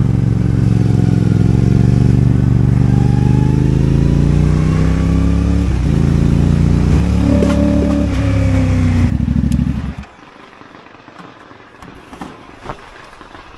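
Motorcycle engine running loudly, its pitch slowly climbing as it revs. It cuts off abruptly about ten seconds in, leaving only a faint background with a few clicks.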